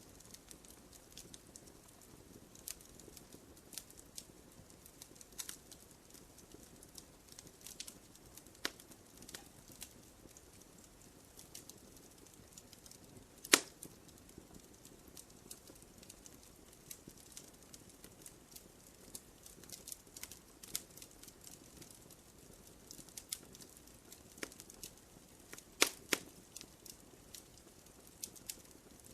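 Wood fire crackling in a fireplace: scattered sharp pops and snaps over a faint hiss, the loudest pop about halfway through and two more close together near the end.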